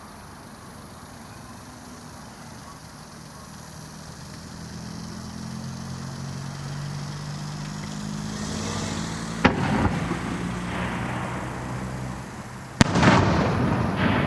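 Aerial firework shells bursting: two sharp reports about three seconds apart, the second the loudest, each followed by crackling and a rumble of echo. A low hum grows louder in the seconds before the first burst.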